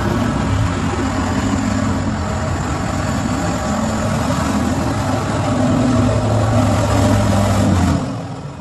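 Car engine running under heavy throttle as the stuck car tries to pull free, with a broad rushing noise over it. The revs climb a little between about five and eight seconds, then are let off near the end.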